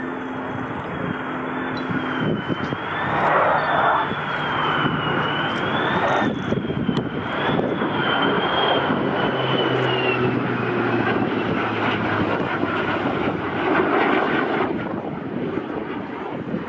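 A KC-130J Hercules tanker and an F-35B jet flying past together: a steady, loud engine din with a high whine that wavers up and down through most of the pass.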